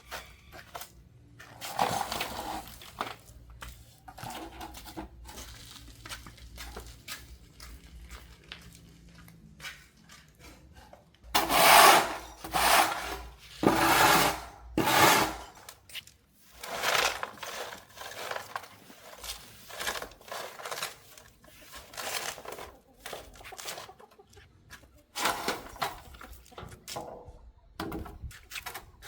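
Irregular scraping and rubbing strokes of hand work on a hard surface, with the loudest run of strokes about a third of the way in.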